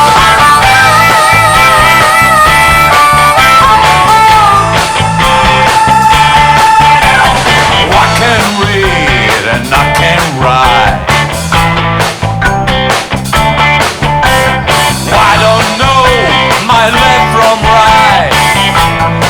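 A blues-rock band playing loudly, with bass and drums keeping a steady rhythm. A lead instrument holds one long wavering note until about seven seconds in, then moves into quick bent and sliding notes.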